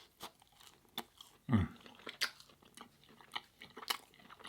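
A person chewing a plant-based burger close to the microphone, with wet mouth clicks and smacks. About a second and a half in there is one short, low vocal sound.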